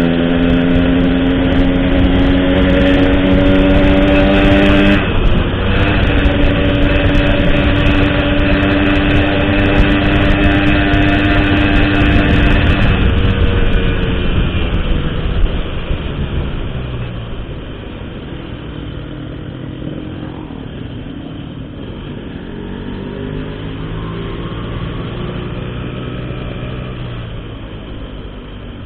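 Motorcycle with an Altech C17 aftermarket exhaust accelerating hard, its engine note climbing steadily with a brief break for a gear change about five seconds in. About fourteen seconds in the rider backs off and the engine runs quieter at lower, rising and falling revs.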